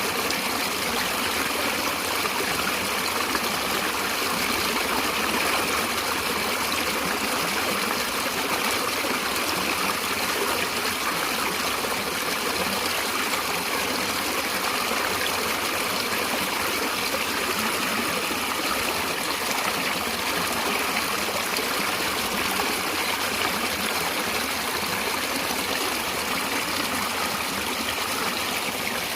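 Stream water flowing and trickling steadily, an even rushing babble with no breaks.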